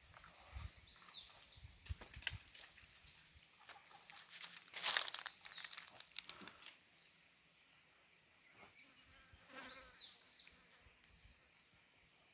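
Forest birds calling with repeated short, downward-sliding high whistles over a steady high insect drone. A few low knocks come early, and a loud brushing rustle about five seconds in.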